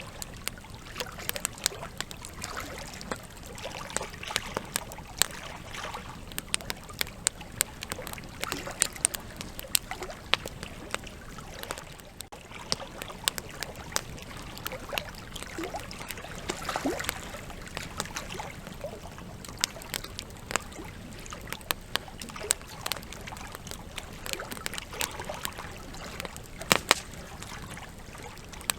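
Campfire of burning logs crackling, with sharp, irregular pops scattered over a steady hiss of flames.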